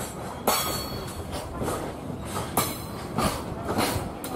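Freight train of container flatcars rolling past, its wheels clacking repeatedly over the rail joints above a steady rumble.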